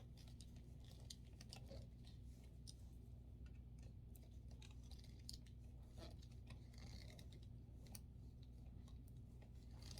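Faint, scattered clicks and light taps of drying-rack parts being handled while a loose screw is worked tighter, over a steady low hum.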